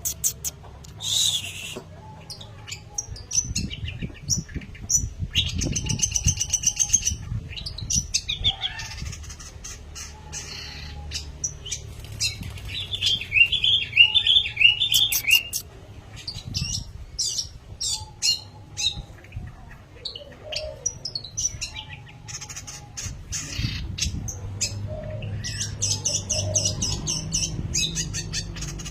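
Long-tailed shrike (pentet) singing vigorously: a long, varied run of quick chirps and harsh notes, loudest in a burst of rapidly repeated notes about halfway through. There are stretches of low fluttering noise from its wings as it moves.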